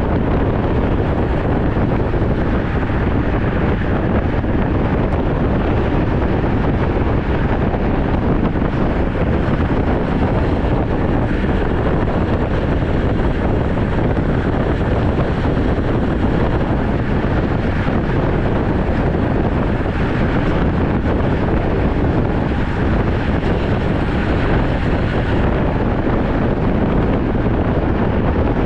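Loud, steady wind rushing over the microphone of a road cyclist riding at speed.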